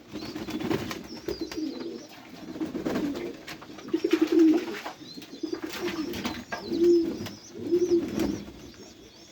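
Domestic pigeons cooing over and over, low coos about once a second, with faint high chirps and a few short clicks between them.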